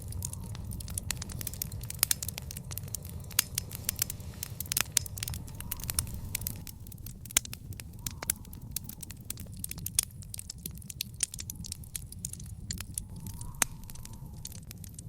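Wood fire in an outdoor fire pit crackling, with dense sharp pops and a few louder snaps over a steady low rumble.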